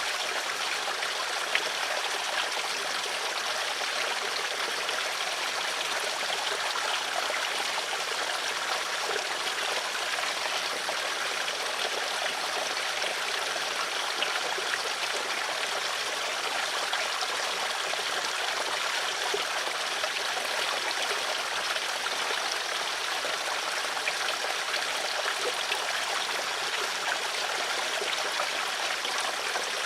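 Flowing stream water running steadily, a continuous babbling and trickling with small splashes.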